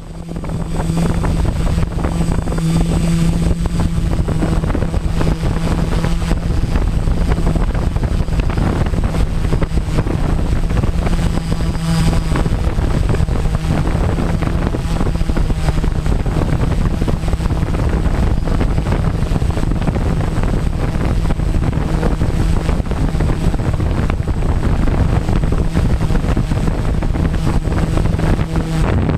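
Quadcopter's electric motors and propellers humming steadily, with a high thin whine above the hum and a rush of wind noise on the microphone.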